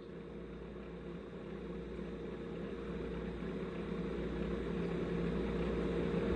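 A steady motor-like hum that grows gradually louder.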